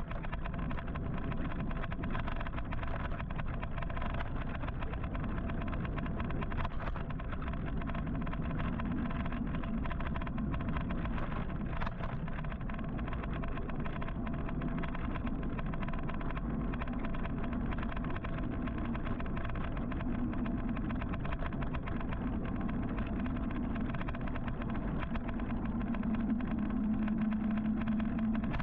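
Steady rush of wind and road noise while riding an electric motorcycle in traffic, with the hum of vehicles alongside growing a little louder near the end.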